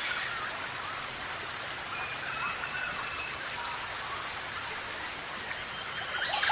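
Parrots chirping and whistling in short, scattered calls over a steady rain-like hiss, with a louder burst of chirps near the end.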